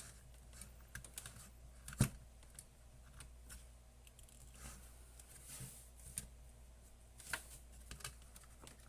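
Scattered light clicks and small knocks of parts being handled and worked loose while taking apart a vintage electronic thermometer unit, with a sharper knock about two seconds in and another near the end.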